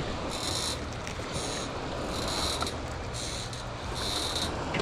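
Low, steady drone of a boat motor on the water, with a high buzzing that pulses about once a second.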